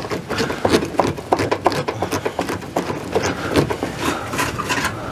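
Hand tool working screws out of a Suburban RV furnace's sheet-metal casing: irregular metallic clicks, taps and scrapes, several a second.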